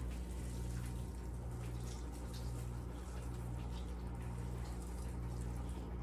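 Faint, irregular soft wet squishing of baked chicken breasts being pulled apart by hand in a bowl of mayonnaise sauce, over a steady low electrical hum.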